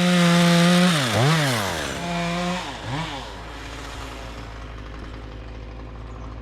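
Two-stroke Stihl chainsaw running at full throttle. The throttle is let off and opened again twice, then the saw settles to a steady idle.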